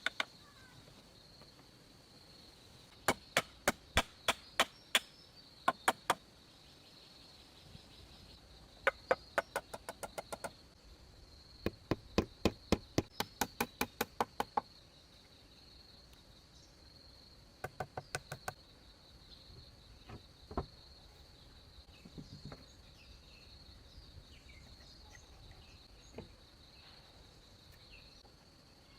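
A hand tool striking wood in quick runs of sharp blows, three to five a second, with pauses between the runs and a few single knocks later. A steady high insect drone runs underneath.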